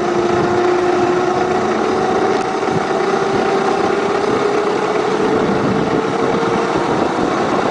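Garden-scale model train running along the track, its motor and gears giving a steady whine over rail and running noise, the pitch drifting slightly higher later on.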